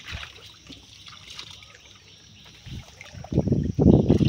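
Water splashing and sloshing, faint at first and much louder from about three seconds in.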